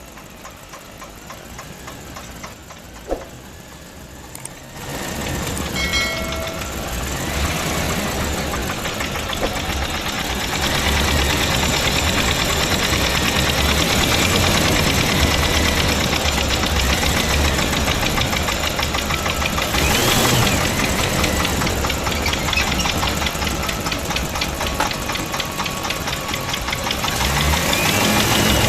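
A small motor running steadily with a rapid ticking, loudening about five seconds in after a quieter stretch that holds one sharp click.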